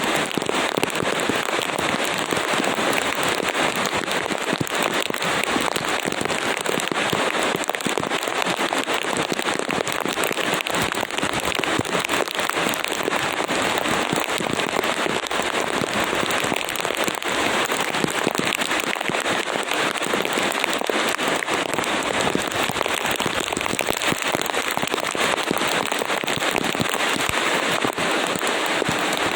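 Steady heavy rain, a dense patter of countless drops that never lets up.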